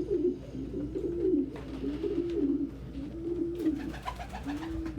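Pet pigeons cooing: a run of rising-and-falling coos about one a second, overlapping at first and then coming singly, with a few light clicks near the end.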